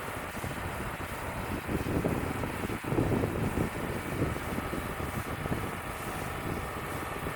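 Wood-Mizer LT35 portable band sawmill running, with wind buffeting the microphone in uneven gusts.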